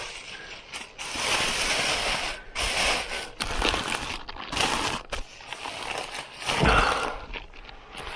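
Irregular rustling and clattering of camp gear and food being handled and packed away, in a string of short bursts, loudest near the end.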